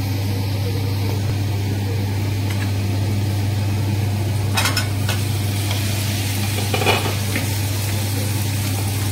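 Tahari masala sizzling in an open pressure cooker while a wooden spatula stirs it, with two short scrapes of the spatula against the pot about four and a half and seven seconds in. A steady low hum runs underneath.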